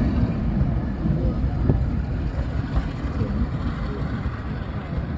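Passenger train hauled by a Class 45 diesel locomotive rolling away along the track, a low rumble of wheels on rails that fades steadily as the last coach recedes.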